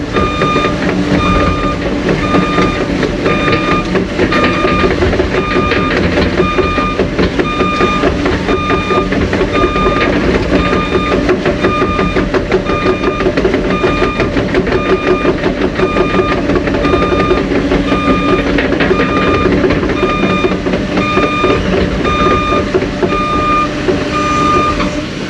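Heavy machine's reversing alarm beeping about once a second as it backs up, over its steady diesel engine and a dense rattle from the working machine.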